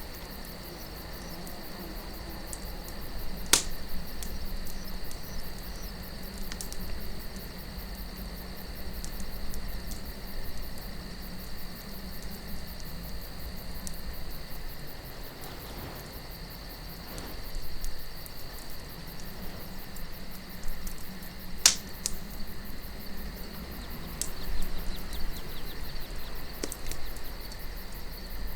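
Wood fire crackling with scattered small ticks and two sharp, loud pops about eighteen seconds apart, over a steady chirping of crickets and a low wind.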